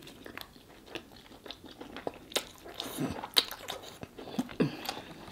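Eating sauce-coated king crab leg meat: chewing and biting with a run of wet smacking and clicking mouth sounds.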